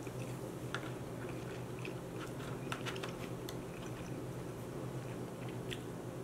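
Close-miked wet chewing of a soft dessert, with scattered small clicks and light taps of a plastic fork against a plastic takeout container, over a steady low hum.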